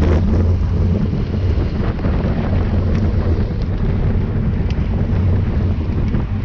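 Wind buffeting the microphone of a camera riding along at racing speed on a bicycle, a steady low rumble.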